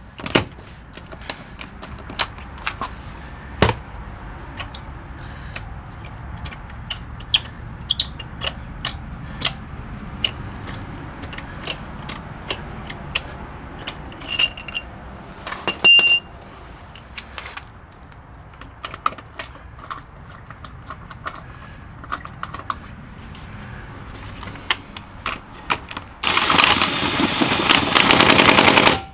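Hand work on a car: scattered clicks, taps and clatter of tools and parts being handled, with two short high beeps near the middle, then a loud steady whirring for about three seconds near the end.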